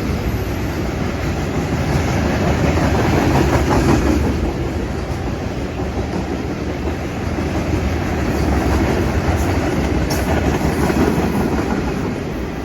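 Freight train rolling past, its wheels rumbling and clacking steadily over the rails.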